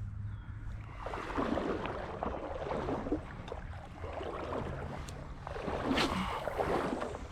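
Shallow creek water sloshing and splashing in two bouts, the second about five and a half seconds in, over a steady low rumble.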